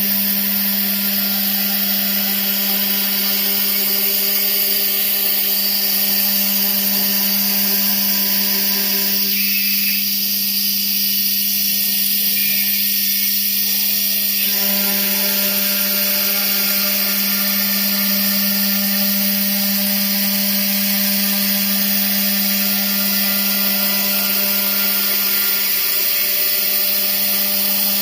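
CNC stone-carving router running, its spindle machining stone with a steady loud drone and hiss over a strong low hum. For about five seconds near the middle the mid-range noise thins out, then returns.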